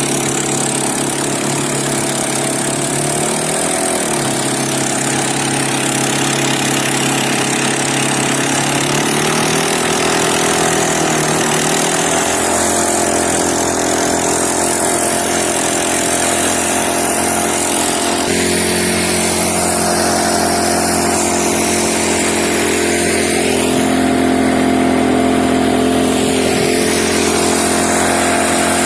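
Small boat motor running steadily, its pitch rising and falling a few times as the throttle changes.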